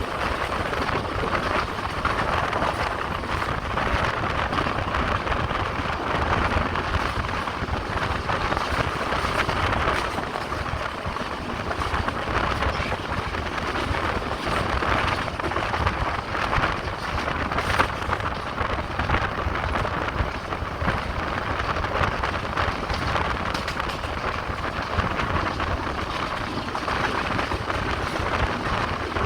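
Steady noise of a passenger train running along the track, heard from aboard the train.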